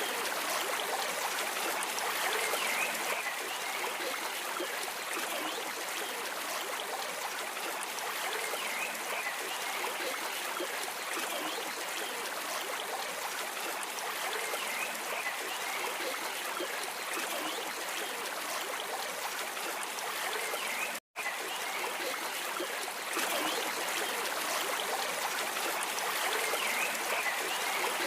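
Stream water flowing and trickling steadily, with the sound cutting out for an instant about two-thirds of the way through.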